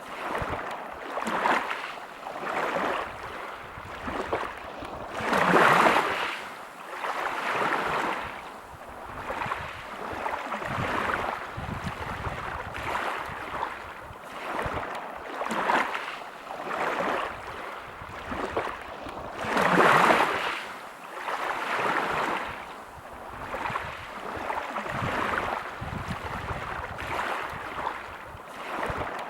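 Waves breaking and washing over a pebble beach, the surf swelling and falling back every second or two, with two bigger waves about six seconds in and near twenty seconds.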